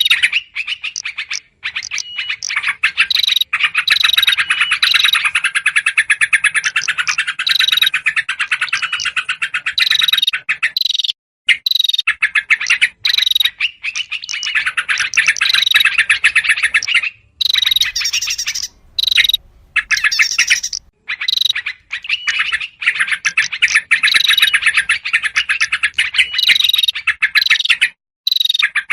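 Dense, rapid chattering of agitated yellow-vented bulbuls mixed with other small songbirds, repeated short high notes cutting through, with a few brief breaks. It is a bird-lure recording whose excited, alarm-like chatter is meant to draw small wild birds in.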